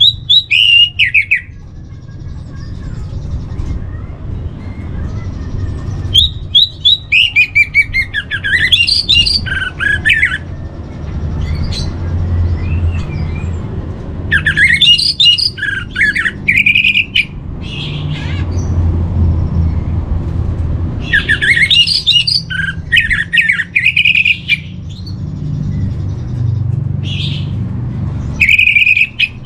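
Orange-headed thrush (anis merah) singing: about five separate phrases of quick, mostly falling high notes, each a few seconds long, with pauses between them. A steady low hum runs underneath.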